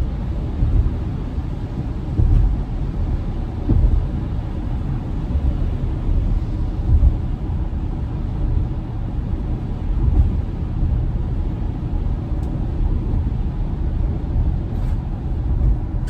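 Steady low rumble of tyre and road noise inside a moving Tesla on a wet road in light rain.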